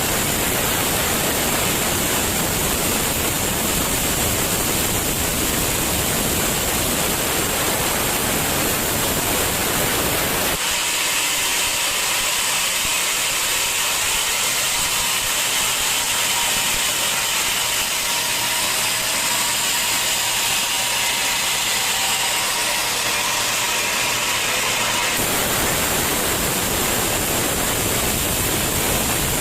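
Steady, loud sawmill machinery noise. From about a third of the way in until near the end, the low rumble cuts out abruptly and only a higher hiss with faint steady tones remains, before the full noise returns just as suddenly.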